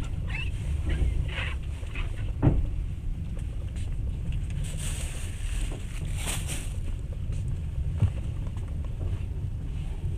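Moving passenger train heard from inside the carriage: a steady low rumble, with a sharp knock about two and a half seconds in, another near eight seconds, and two short hissing swells around the middle.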